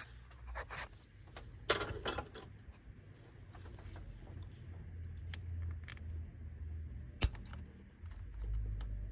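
Scattered metallic clinks and clicks of a pick tool working at the locking tab of a plastic electrical connector in an engine bay: a short cluster with a brief ring about two seconds in, then a single sharp click about seven seconds in.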